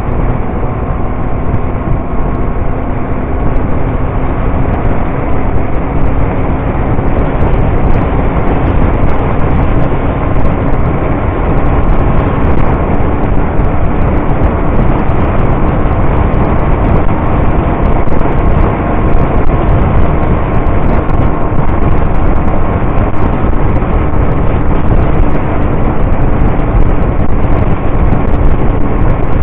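Motorcycle running at a steady cruising speed, with a loud, continuous drone of engine and road rush and a faint engine note that rises slowly.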